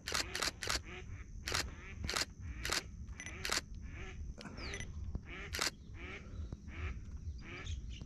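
Birds calling in a run of short repeated notes, about two a second, over a steady high whine. Sharp knocks are scattered through and are the loudest sounds.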